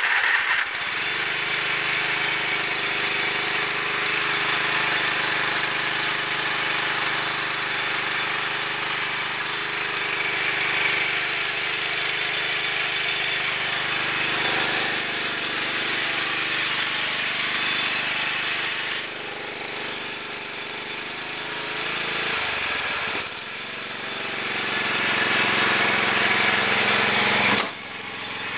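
Kawasaki engine of a John Deere 130 lawn tractor running steadily just after a cold start, with a fast, even pulsing beat. Near the end the engine sound drops suddenly, then builds back up.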